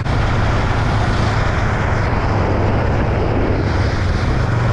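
Motorcycle engine running at a steady cruise, a constant low drone under heavy wind rush.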